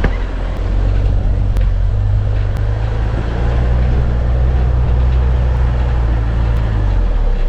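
Mitsubishi 4x4 van driving: a steady low engine and road drone, heard from inside the vehicle.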